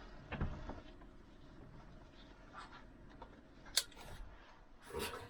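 Quiet handling and rustling noises, with a soft thump about half a second in and a sharp click about four seconds in.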